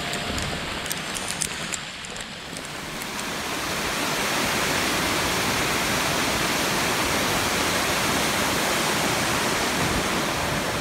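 Steady rushing of a waterfall, coming up as background music fades out over the first two or three seconds.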